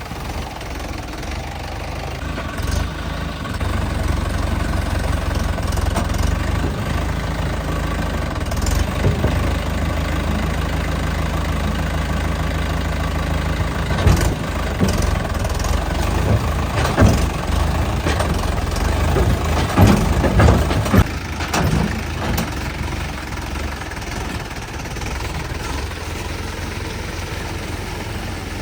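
Tractor diesel engine running steadily, louder from about four seconds in, with a series of sharp knocks and clatters in the middle.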